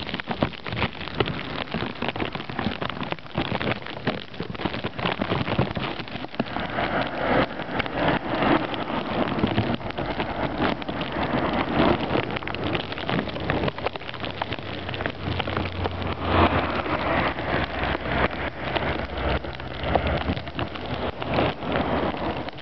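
Steady crackling hiss of wet, driving snow, with vehicles swishing past on the slushy road twice, about a third of the way in and again past the middle, the second with a low engine rumble.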